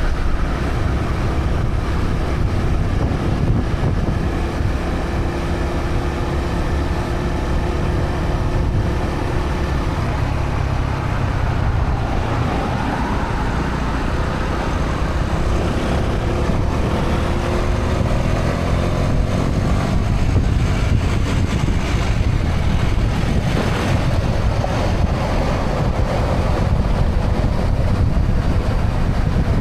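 Honda CB125R's single-cylinder four-stroke engine running through its stock exhaust while riding in traffic, under a steady low rumble of road noise. The engine pitch climbs and drops several times in the second half as the rider opens and closes the throttle and changes gear.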